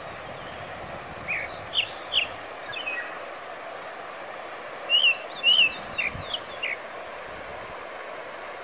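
Small birds chirping over a steady, even hiss of outdoor ambience: a few short chirps a little over a second in, then a quicker run of chirps about five seconds in.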